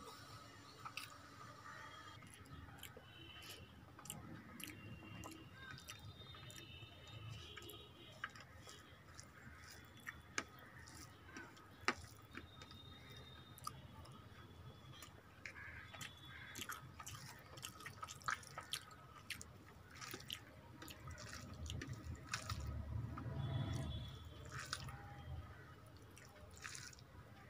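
Close-up sounds of a person eating rice and curry by hand: wet chewing with many small mouth clicks and smacks, and fingers squishing rice against the plate. The eating gets louder for a couple of seconds near the end.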